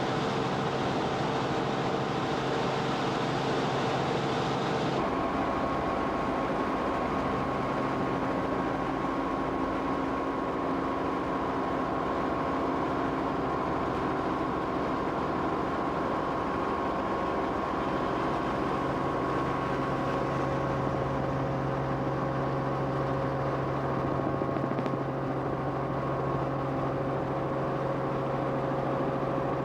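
Steady engine and airframe noise of the aircraft carrying the camera, a constant drone with several held tones; the tones shift suddenly about five seconds in.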